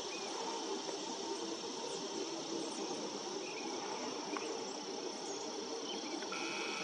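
Steady high-pitched insect drone over a low continuous background hum, with a few faint short bird chirps. Near the end a steady, even tone begins.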